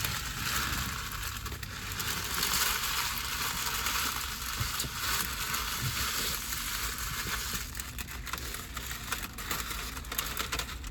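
Close-up crinkling and rustling of food packaging, a continuous crackly hiss that stops abruptly near the end.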